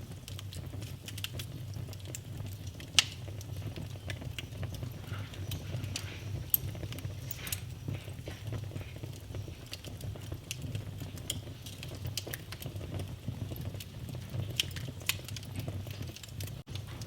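Wood fire in a fireplace crackling, with irregular sharp pops over a steady low rumble of the flames; the loudest pop comes about three seconds in.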